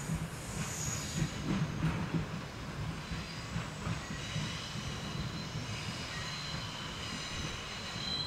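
413/455-series electric multiple unit moving through the switchback trackwork into the siding, with a low rumble and wheels clicking over rail joints. About three seconds in, a high, steady wheel squeal sets in and holds.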